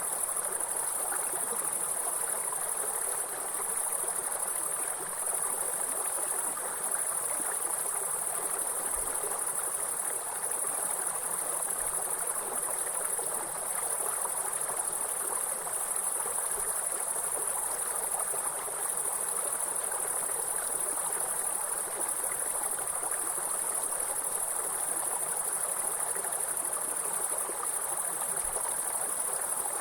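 A continuous high-pitched insect trill over the steady rush of a flowing water stream, both unchanging throughout.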